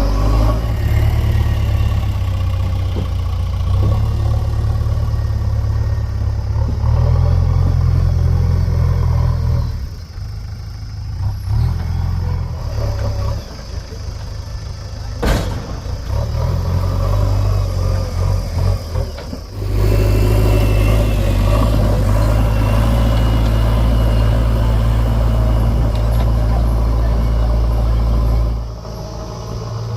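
JCB 3DX backhoe loader's diesel engine running and revving up and down under load while digging and loading, easing off in the middle and then running hard again near the end. A single sharp click about halfway through.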